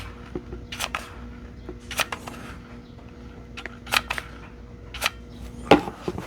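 Sharp clicks and light knocks, about eight spread irregularly, as cylindrical 18650 lithium-ion cells are set down on the bench and pushed against each other into rows, the loudest near the end.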